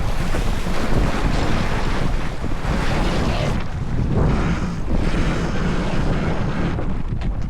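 Wind buffeting the microphone, with water rushing along the hull of a J/24 sailboat under sail; the noise swells and eases every second or two.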